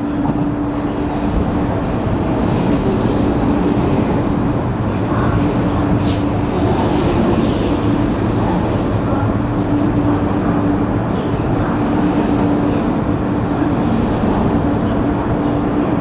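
Metro-Cammell electric multiple-unit train (MTR East Rail Line MLR) running into a station, a loud steady rumble with a constant low hum. A sharp click sounds about six seconds in.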